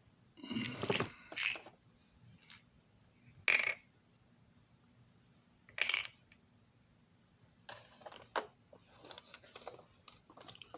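Sharp clicks and clatters of small hard parts and tools being handled on a workbench while a model railroad passenger car is put back together. A short cluster comes near the start, single sharp clicks follow a few seconds apart, and lighter ticks come near the end.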